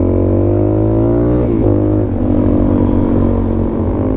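Motorcycle engine accelerating: its pitch rises for about a second and a half, drops sharply as it shifts up a gear, then holds steady at the lower pitch.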